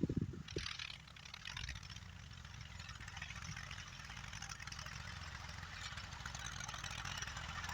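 An engine running steadily and slowly getting louder, after a few low knocks in the first second.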